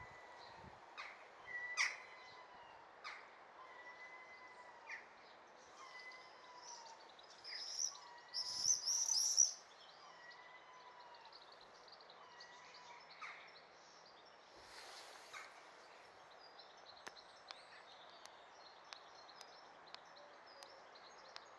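Common swifts screaming in flight, with a loud burst of shrill, buzzy screams about eight seconds in and scattered fainter screams elsewhere. A repeated short whistled note from another bird sounds through the first half.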